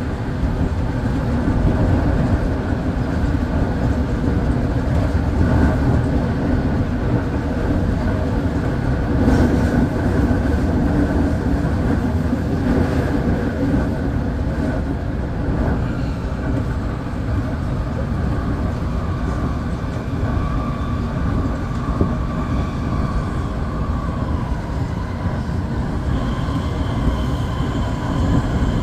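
Semboku Rapid Railway 9300-series electric train running at speed between stations, heard from inside the leading car: a steady rumble of wheels on rail. A faint whine comes in during the last third.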